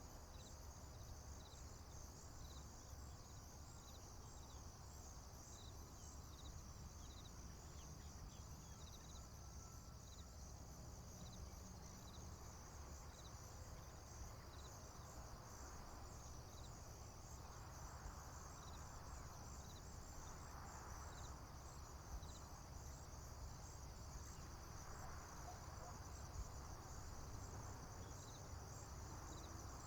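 Faint chorus of crickets chirping: a steady high trill with evenly repeating pulses, over a low steady rumble.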